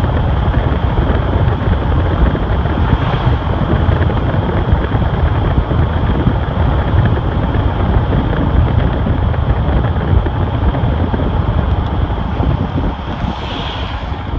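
2008 Chevrolet Silverado 4x4 truck on the move: a steady low rumble of engine and road noise with wind buffeting the microphone, easing off near the end.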